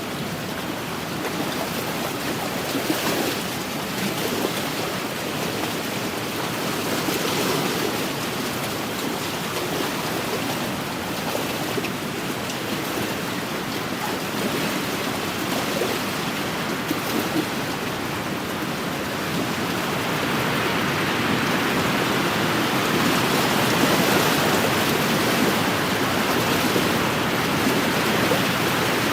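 Wind-driven waves lapping and splashing on a lakeshore, a continuous rush of water that grows a little louder about two-thirds of the way through.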